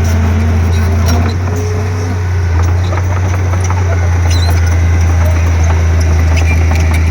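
Komatsu D31P bulldozer's diesel engine running steadily as a deep, even drone, with scattered light clicks and short squeaks over it.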